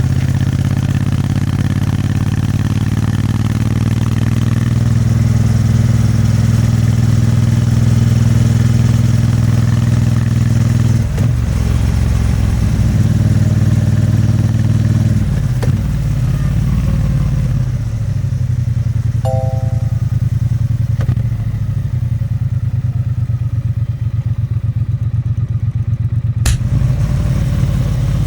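Exhaust of a Triumph Bonneville T100's 900 cc parallel twin under way, with the pitch changing twice as the rider shifts or eases off. It then settles into a slower, lumpier low-speed beat for the second half. A short beep sounds about two-thirds through, and a sharp click near the end.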